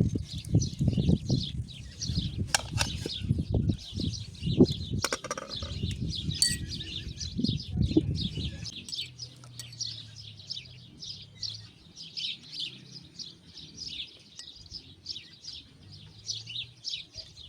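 Small birds chirping continuously in rapid, overlapping calls. For the first eight or nine seconds a low, irregular rumbling sits under the birdsong, then stops, leaving the chirping alone.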